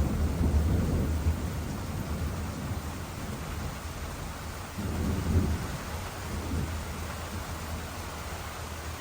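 Thunder rumbling and fading away, with a fresh rumble swelling about five seconds in and dying down again, over a steady hiss of rain.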